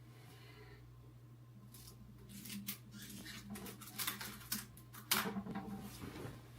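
Rubber bands being stretched and snapped onto a watermelon's rind: irregular sharp clicks and snaps that start about two seconds in and come thicker toward the end, over a low steady hum.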